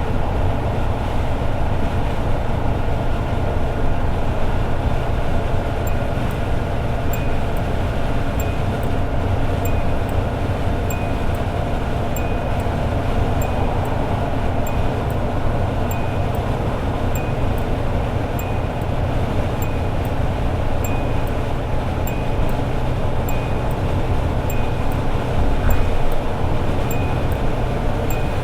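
Toyota AE86 Sprinter Trueno's four-cylinder engine running steadily at highway cruise, with heavy road and tyre noise. From about six seconds in, a light high tick or chime repeats about twice a second, and a single low thump comes near the end.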